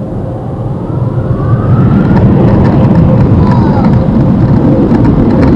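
Car-wash air-dryer blowers blasting against the minivan, heard from inside the cabin as a loud, steady rush that grows louder about a second in, with a faint rising whine.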